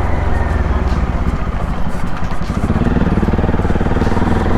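Bajaj Pulsar NS200 single-cylinder engine running through an aftermarket Akrapovic full-system exhaust while the bike is ridden, a fast low pulsing firing beat at steady loudness, with its note shifting a little past the middle.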